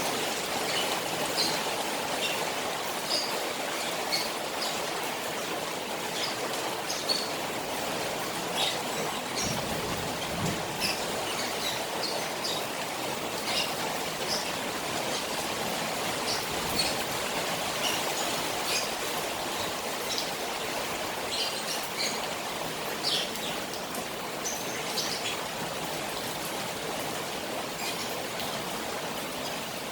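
Rain falling on a koi pond, a steady watery rush, with many short high-pitched chirps scattered throughout.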